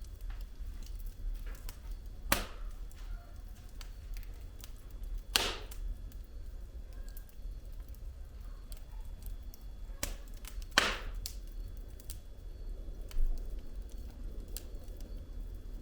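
Wood fire burning in a fireplace: a steady low rumble of flame with frequent small crackles of the burning logs, and three loud pops about two, five and eleven seconds in.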